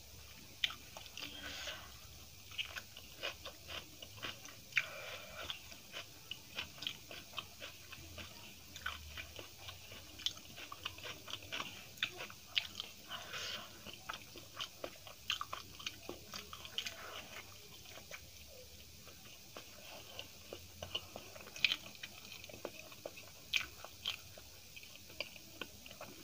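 Close-up chewing and biting: a person eating by hand, with a run of quick, sharp crunchy clicks and wet mouth sounds, thinning out briefly past the middle.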